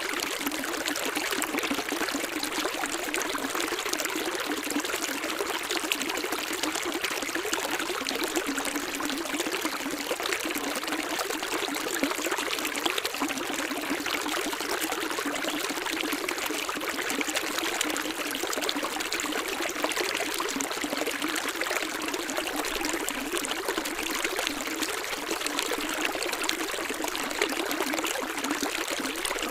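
Running water, a steady splashing flow like a stream or small falls, with nothing low in it and no change in level.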